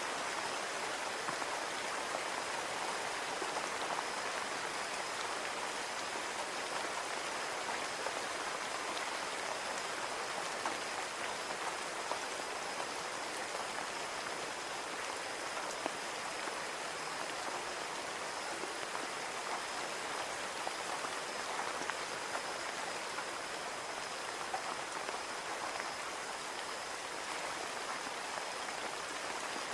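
Steady rain falling on a window, an even patter of drops with occasional louder single drop ticks, and a faint steady high-pitched tone running through it.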